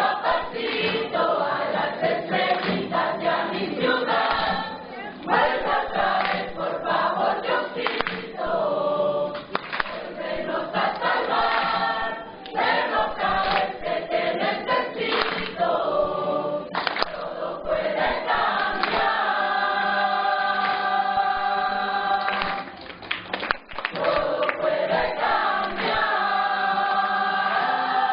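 Choir singing, holding long sustained chords twice in the second half.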